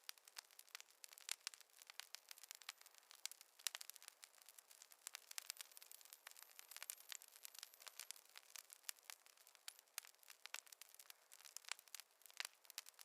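Wood fire crackling: a faint, dense, irregular run of small sharp pops and snaps.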